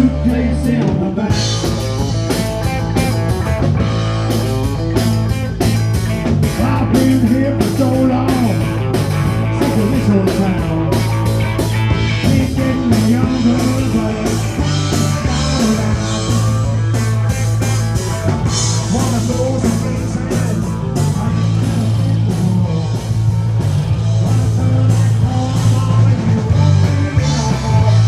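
Rock music played by a band, with singing over drums, bass and guitar and a steady beat.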